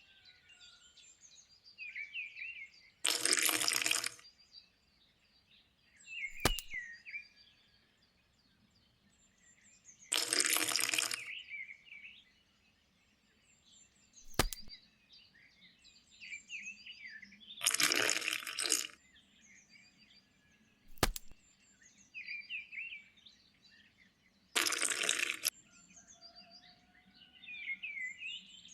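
Birds chirping, with a noisy burst about a second long every seven seconds or so and a sharp crack between the bursts. The same pattern repeats four times, like a looped farmyard sound track.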